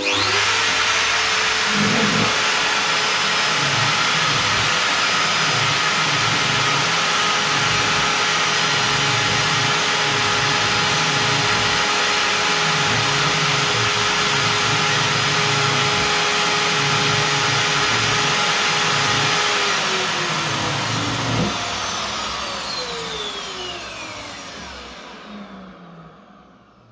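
High-speed CNC router spindle running steadily with a high whine and a dense noise above it, then switched off about 20 seconds in and winding down in falling tones until it fades out near the end.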